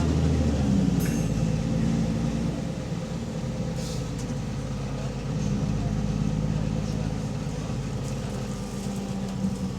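Double-decker bus's diesel engine heard from on board, running with an exhaust leak. Its note shifts about half a second in, and a few brief clicks or rattles sound around one and four seconds in.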